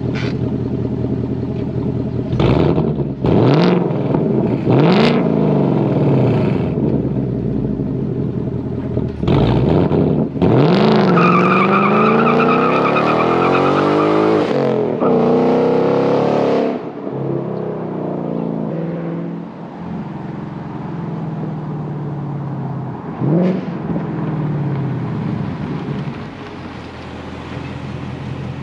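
2019 Ford Mustang GT's 5.0-litre V8 with active exhaust and factory mufflers. It idles, is revved sharply three times, then accelerates away hard with rising pitch and gear changes. It drops to a quieter steady run, with one more short rev near the end.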